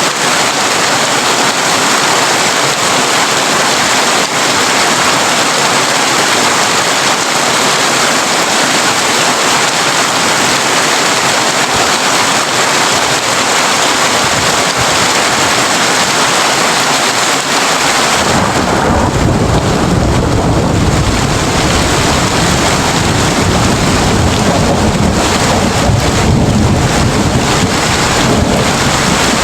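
Heavy rain drumming steadily on a corrugated tin roof. About two-thirds of the way through, a deep rumble of thunder sets in and keeps rolling underneath the rain.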